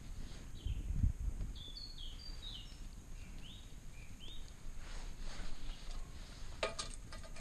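A songbird singing a run of short, clear whistled notes that slide downward, over steady outdoor background noise. A low thump comes about a second in, and a quick cluster of sharp clicks near the end.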